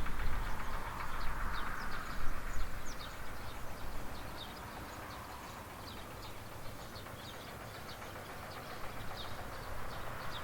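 Field ambience: small birds chirp repeatedly over a steady rushing noise and low rumble. The rumble is strongest and gusty in the first few seconds, like wind buffeting the microphone, then it settles.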